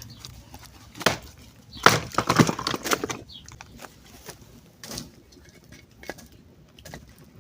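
Wood cracking and knocking in short, irregular clicks, with a loud cluster of cracks about two seconds in.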